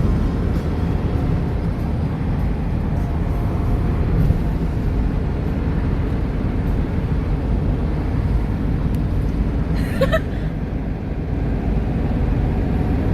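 Steady rumble of a moving car, heard from inside the cabin. A brief short sound cuts in about ten seconds in.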